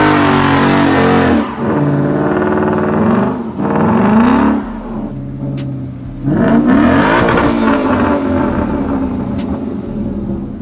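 A car engine revving hard in several surges, its pitch climbing and falling each time, then easing off near the end.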